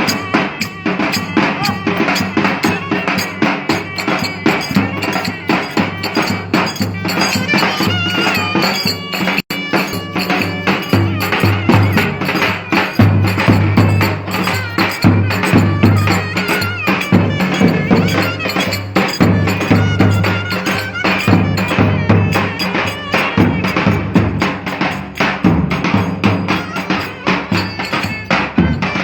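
Live Turkish folk dance music: fast drumming and clattering percussion under a wavering melody line, with a momentary break about nine and a half seconds in.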